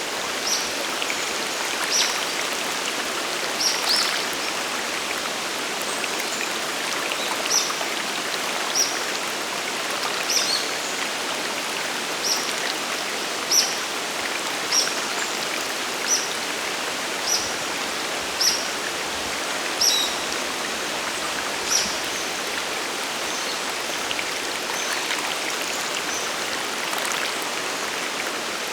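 Steady rushing of a waterfall and mountain stream. A short high chirp repeats about once a second over the water, most regularly through the middle.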